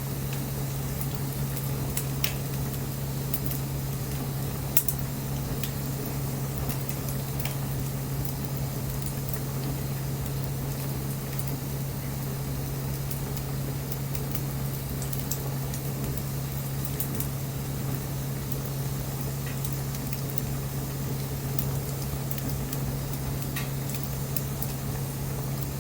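Wood bonfire burning with a steady hiss and scattered sharp crackling pops, the loudest about five seconds in, over a constant low hum.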